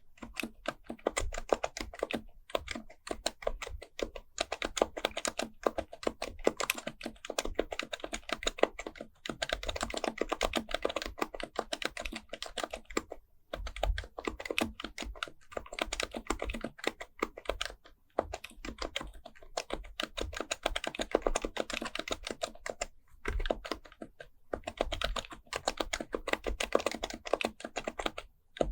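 Happy Hacking Keyboard Professional Type-S, a silenced Topre capacitive keyboard, being typed on fast and steadily, a rapid run of soft key strokes broken by short pauses every few seconds.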